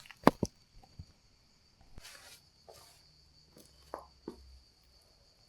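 Sharp metallic knocks and clinks of dumbbell weight plates being handled while the weight is increased, the loudest pair about a third of a second in and a few lighter knocks later, with short rustles between. A steady high chirr of crickets continues underneath.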